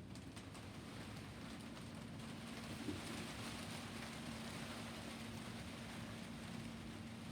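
Steady rain falling, with a faint steady hum that comes in about a second and a half in.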